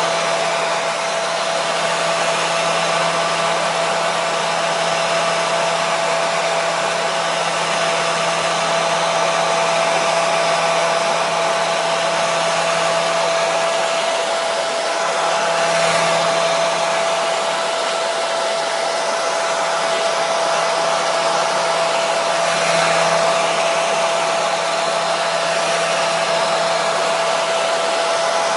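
Hair dryer running steadily: a continuous airy rush with a constant whine from the motor and fan.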